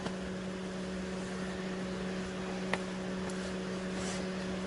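A steady mechanical hum with a constant low tone over an even hiss, like a small motor or fan running. There is one faint click a little past halfway.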